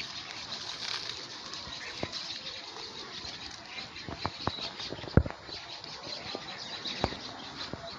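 Plastic litter being picked up and handled: rustling and crinkling with a few sharp clicks and snaps, the loudest about five seconds in, over a steady high-pitched background.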